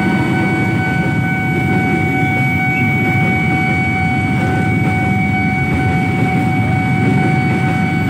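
Freight train rolling past: a diesel locomotive goes by at the start, then container and tank wagons follow with a steady low rumble. A steady high tone sounds over it throughout.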